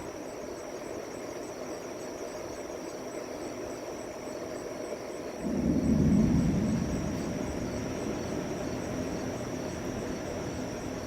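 Thunder rumbling low, swelling suddenly about halfway through and then slowly dying away over a steady low outdoor background.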